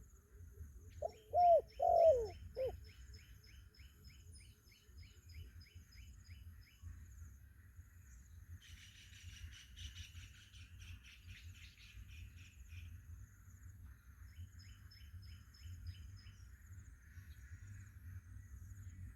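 A spotted dove cooing one short phrase of about four low, rounded notes, about a second in. Other birds' quick repeated chirps and the steady buzz of insects go on behind it.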